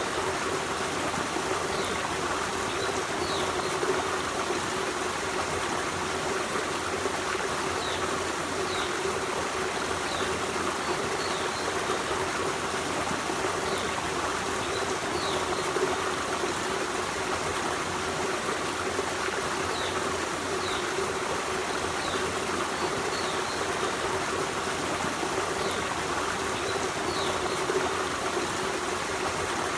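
Forest stream running in a steady rush of water, with faint short high chirps now and then.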